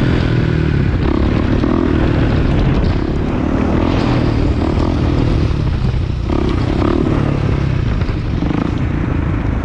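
2019 Kawasaki KX450F's single-cylinder four-stroke engine running steadily through a full Pro Circuit aftermarket exhaust, with a loud, dense low thump and only small dips in level.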